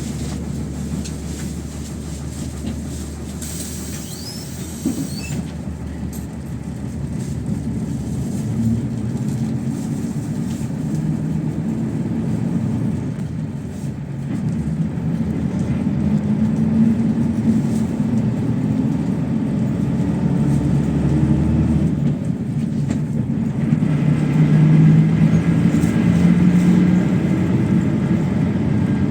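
Inside a PAZ-32054 bus on the move: the engine hums, its pitch rising and falling as it pulls through the gears, over steady road rumble. It gets louder in the second half.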